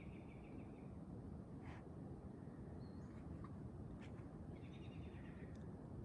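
Quiet forest ambience: a small bird calls with a short run of quick notes at the start and again about five seconds in, over a low steady rumble, with a couple of faint knocks.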